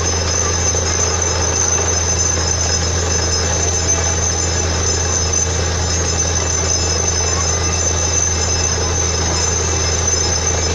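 Borewell drilling rig running steadily: a constant low engine drone with a high, steady whine over it.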